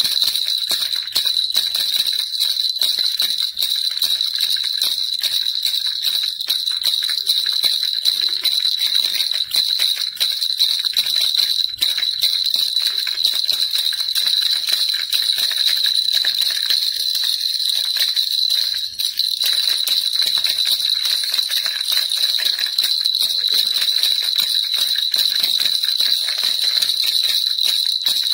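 Baby rattle shaken continuously, a fast, dense jingling with a steady high ringing.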